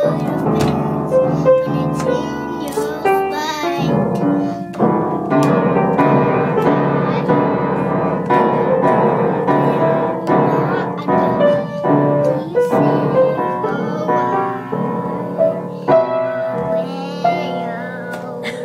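Piano being played: a continuous run of notes and chords.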